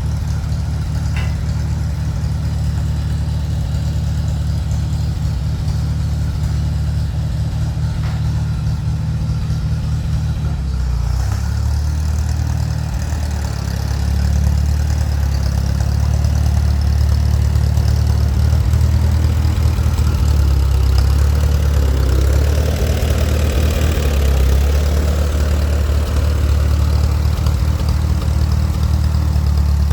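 Vintage Allis-Chalmers farm tractor engine running steadily at a low idle. About eleven seconds in its note shifts, and from about fourteen seconds it runs a little louder as the tractor is moved.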